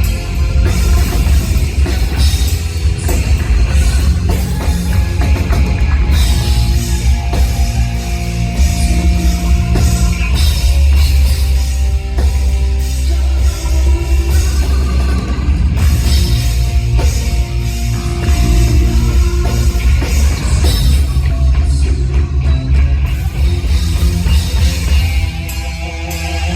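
Live hard rock band playing, with heavy bass, drum kit and distorted guitar, loud and dense; the music eases briefly near the end and then comes back in full.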